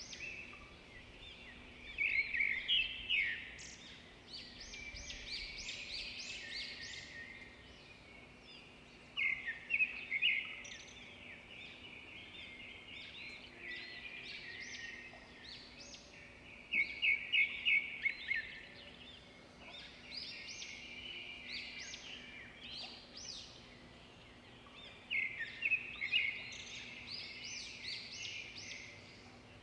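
Birds calling in roadside forest: continuous chirping, with a louder bout of rapid repeated notes about every seven or eight seconds, over a faint steady low hum.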